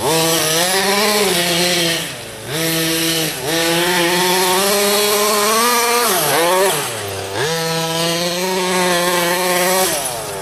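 Radio-controlled car's engine running hard around a track, its pitch dropping off and climbing back up several times as the throttle is let off and opened again.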